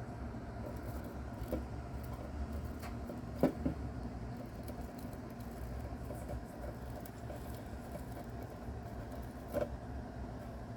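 A few faint scattered clicks from a mouse feeding on a cicada, the sharpest about three and a half seconds in, over a steady low hum.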